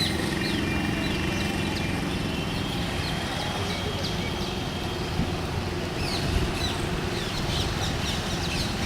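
Outdoor ambience: birds chirping repeatedly, most often near the end, over a steady background hum of traffic, with faint voices in the background.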